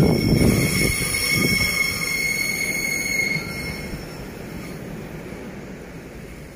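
Passenger train moving away along the track, its wheels squealing in high steady tones on the curve over a low rumble. The whole sound fades steadily; the squeal dies out a little past halfway.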